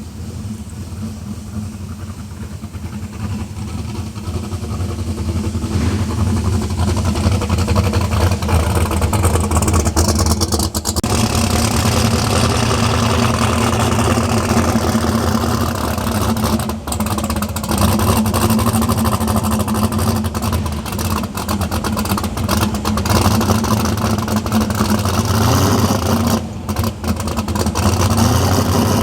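Turbocharged V8 drag car engine running at a steady speed. It grows louder over the first several seconds, then stays loud with scattered crackles.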